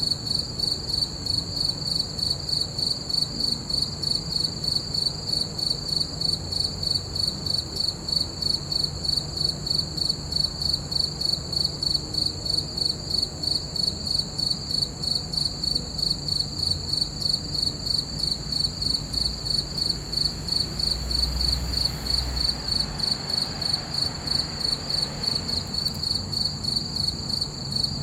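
Crickets chirping in a steady, even rhythm of about two to three high-pitched chirps a second, with a faint low rumble in the background.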